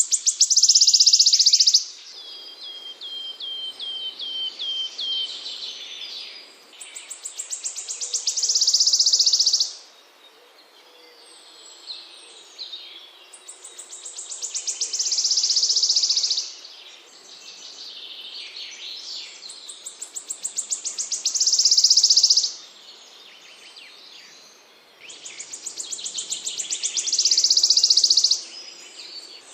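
A small songbird repeating the same song about every six seconds: a run of high notes that quickens and grows louder into a dense, buzzy trill lasting about two seconds. Early on, a short string of about eight quick falling chirps comes between two songs.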